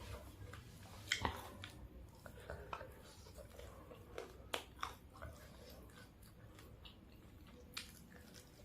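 Close-up chewing and mouth sounds of someone eating fried chicken, with scattered wet smacks and clicks. The loudest come about a second in and again about four and a half seconds in.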